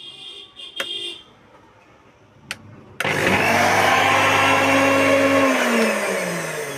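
Two sharp clicks, then an electric mixer grinder's motor starting abruptly and running at full speed for about two and a half seconds. It is then switched off and winds down, its pitch falling steadily.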